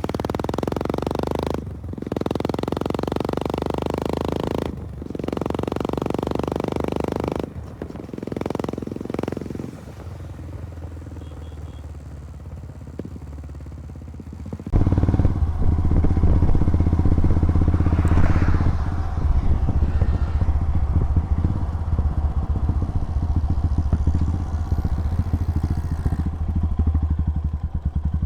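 Royal Enfield Himalayan's 411 cc single-cylinder four-stroke engine running on the move through a custom-built full exhaust system. The exhaust note swells and drops with brief breaks in the first few seconds, goes quieter for a while, then turns suddenly much louder and deeper at about the halfway point.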